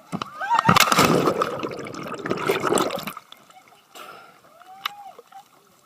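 A person falling out of a kayak into the water: a loud splash about half a second in, then water churning and sloshing for a couple of seconds before it dies away about three seconds in.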